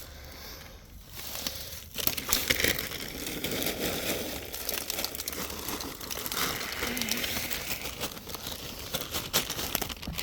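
Crinkling, crackling rustle of items being handled and set down, with many small clicks, starting about two seconds in.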